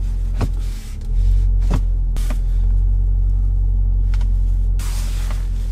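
Twin-turbo V8 of a tuned Audi RS6 idling, a steady low rumble heard from inside the cabin, growing a little louder about a second in. A few light clicks sound over it.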